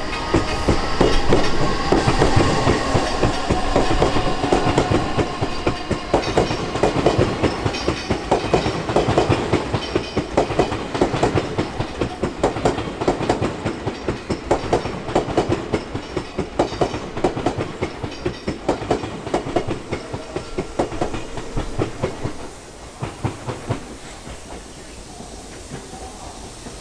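Odakyu 3000 series ten-car electric train pulling away: the whine of its Mitsubishi IGBT-VVVF inverter traction motors trails off in the first few seconds, then a long, regular run of wheel clacks over the rail joints grows gradually quieter as the cars move off, dropping away about 22 seconds in.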